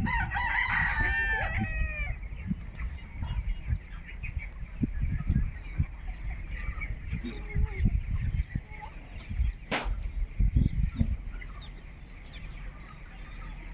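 A rooster crows near the start, one call of about two seconds, followed by scattered faint clucks over a low rumbling background.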